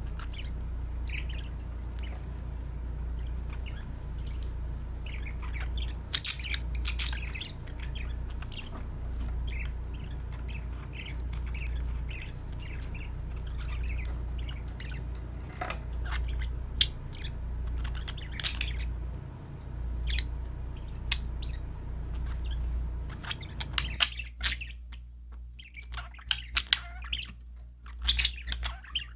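Budgerigars chirping and squawking, with many short, quick chirps over a steady low hum. About 24 seconds in the hum drops out, and the chirping grows louder and busier toward the end.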